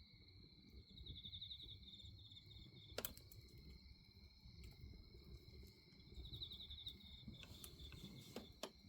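Faint, steady chirring of crickets at night, with two short pulsed trills, over the low crackle of a bonfire; a sharp pop of burning wood about three seconds in and another near the end.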